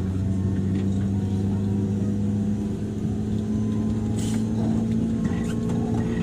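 Running sound of a JR 103 series electric train heard from inside its motor car: a steady traction motor and gear hum whose pitch rises slowly as the train gathers speed, over a low rumble from the wheels, with a few short clicks.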